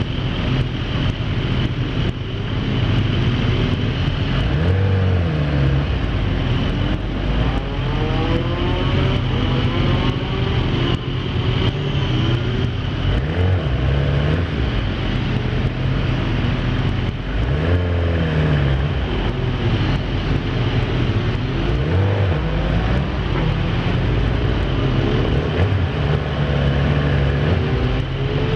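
Kawasaki ZX10R inline-four sportbike engine revving hard on track, its pitch climbing and falling again and again as it accelerates, shifts gear and brakes, over steady wind rush.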